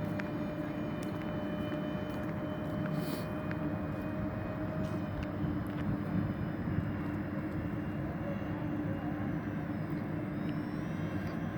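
Electric-powered RC model airliner (Supreme Hobbies Airbus A330-600) running its motors, a steady drone with a thin high whine over it.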